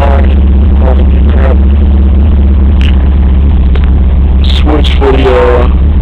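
Honda Prelude drag car's four-cylinder engine idling steadily while it warms up, a loud, even drone that overloads the camera's microphone.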